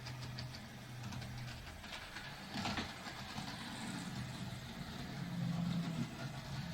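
Model railway train running on the layout: a steady low motor hum with scattered clicks, and a louder rattle about two and a half seconds in.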